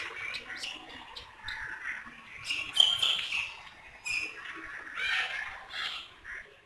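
Birds calling: an irregular jumble of short chirps and squawks throughout, with a few sharp clicks.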